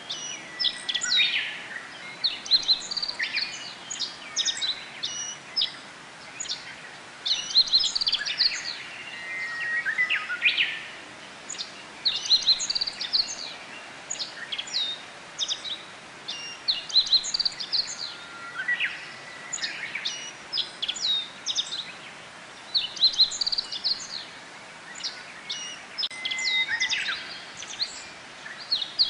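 Japanese white-eyes calling: bursts of quick, high chirps and short falling notes that come every few seconds, over a faint steady background hiss.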